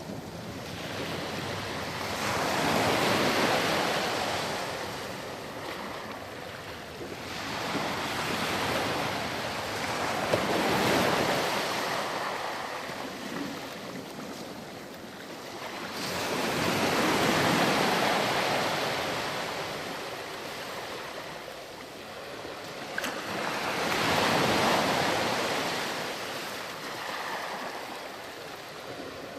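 Ocean surf breaking and washing back on a sandy beach: four waves about seven seconds apart, each swelling up and fading away.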